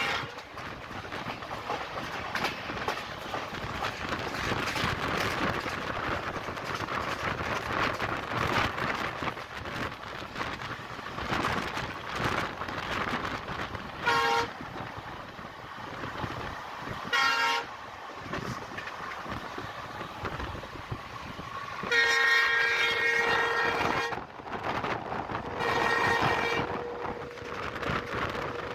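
Steady running noise of an Indian express train heard from inside a coach, with the WDG3A diesel locomotive's horn sounding: two short toots about three seconds apart midway, then a blast of about two seconds and a shorter one near the end.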